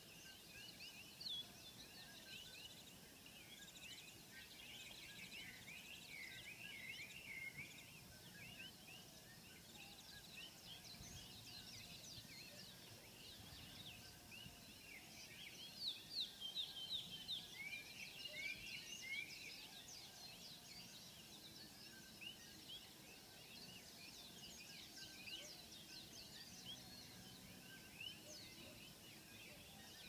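Faint chorus of many small birds, with short chirping and twittering notes overlapping continuously. The calls grow louder and busier about sixteen seconds in.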